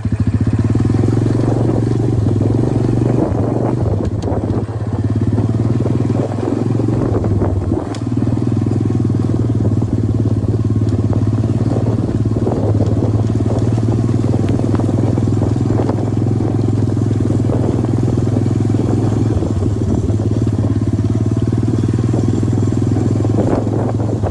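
Motorcycle engine running steadily, with brief dips in level around four and eight seconds in.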